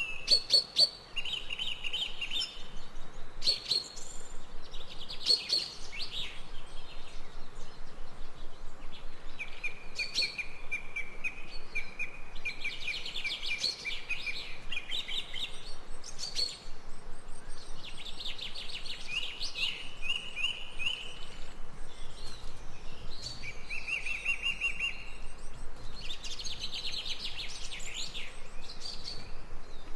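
Songbirds singing: short phrases of rapid, high chirps repeating one after another every few seconds, over a faint steady hiss.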